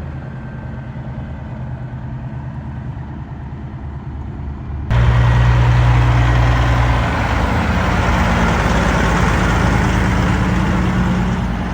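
Heavy truck diesel engine idling steadily. About five seconds in the sound cuts suddenly to a louder, closer engine running with a steady low drone and more hiss.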